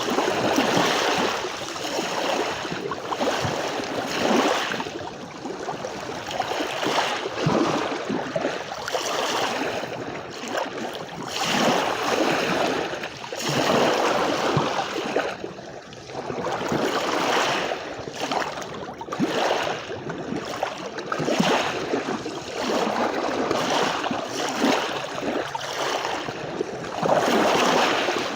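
Sea waves washing onto a beach, the surf swelling and falling away about every three to four seconds.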